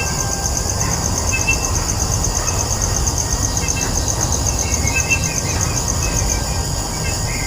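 Outdoor ambience: an insect trills in rapid high pulses over a heavy low rumble, with short bird chirps scattered through. The pulsing trill stops about six seconds in.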